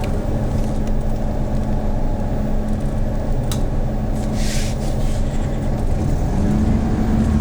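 Hyundai New Super Aero City CNG city bus engine running steadily, heard from inside the bus. There is a short click about three and a half seconds in and a brief hiss about a second later. Near the end the engine note rises a little and falls again.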